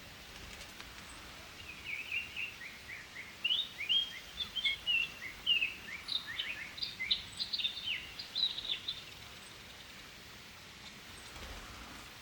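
Birds chirping: a quick run of many short high chirps that begins about two seconds in and stops about nine seconds in, over a faint steady outdoor hiss.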